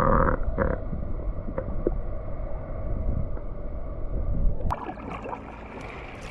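Water sloshing and rumbling around a kayak, with a single sharp knock about three-quarters of the way through.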